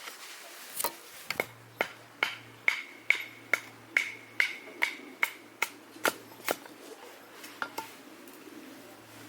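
Firewood being split by hand: a quick, even series of about a dozen sharp strikes, two to three a second, several with a short metallic ring, tapering to a few lighter knocks near the end.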